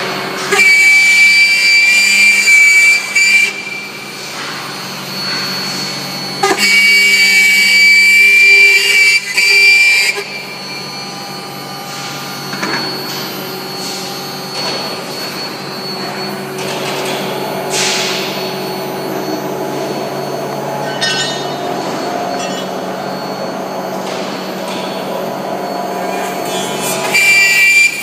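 High-speed milling spindle on an ABB IRB 4400 milling robot running and cutting, with a steady high whine. It is loudest in two stretches of a few seconds near the start and again near the end, and quieter in between.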